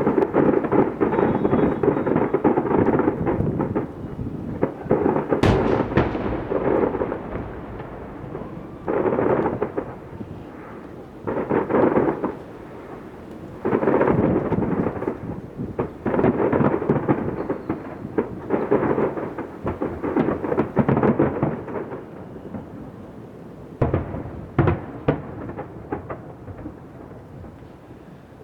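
Aerial fireworks display: shells bursting in a rapid series of booms that roll into a rumbling echo, with a sharp crack about five seconds in. The bursts come in clusters and thin out near the end.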